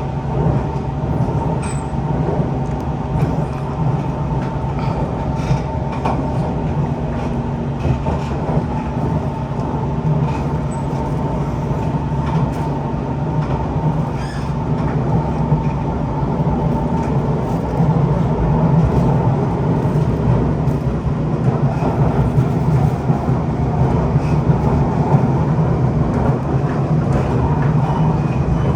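Siemens C651 electric metro train running between stations: a steady rumble of motors and wheels with a steady whine above it and occasional faint clicks, getting a little louder past the midpoint.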